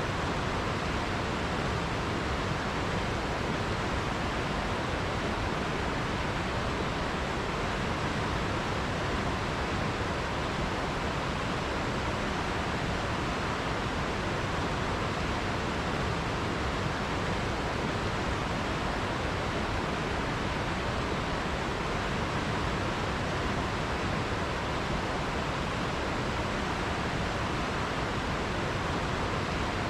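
River water rushing steadily over rocks, an even, unbroken hiss with no change in level.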